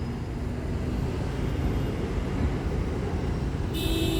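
Steady low rumble of car and traffic noise. A short, higher-pitched sound starts near the end.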